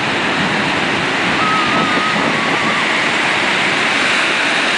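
Big ocean surf breaking on a beach: a steady, continuous rush of waves. A faint wavering high tone sounds briefly about a second and a half in.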